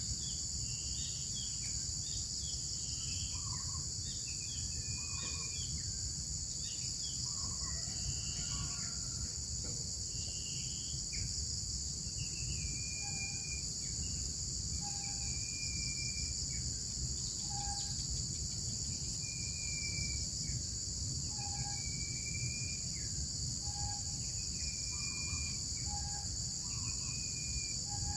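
Steady high-pitched insect chorus over a low rumble, with short bird calls scattered throughout; in the second half one bird repeats a clear held note, about a second long, every two to three seconds.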